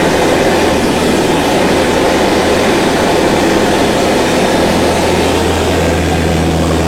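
A vehicle running steadily: a loud, even noise with a low hum underneath.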